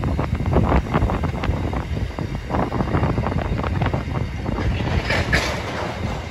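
Freight train wagons rolling past: a steady low rumble with irregular clicking and clacking from the wheels on the track.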